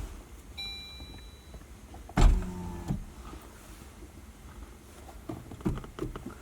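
Car power window motor whining briefly as the window glass is raised, then a loud thump a little after two seconds in, with a few scattered knocks and clicks near the end.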